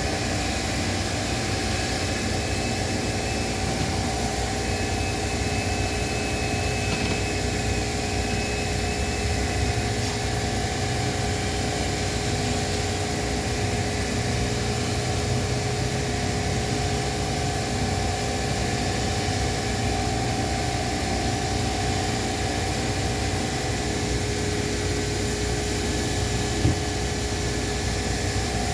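Tunnel car wash machinery running steadily: an even rushing hum of motors and blowers with a couple of steady tones through it. A single short knock sounds near the end.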